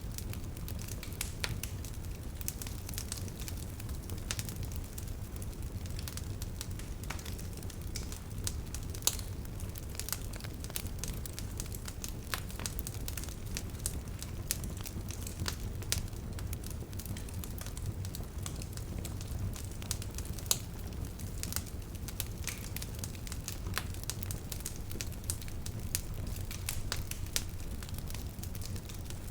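Bonfire burning: wood crackling with frequent sharp pops, a few louder than the rest, over a low steady rumble of the flames.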